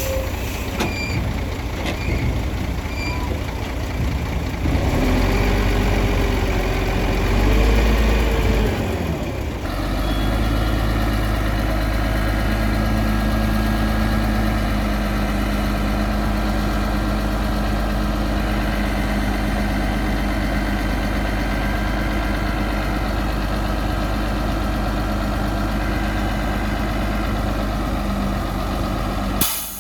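Bulldozer diesel engine running under work, its pitch rising and falling for a few seconds, then a steady engine sound after a sudden change about ten seconds in.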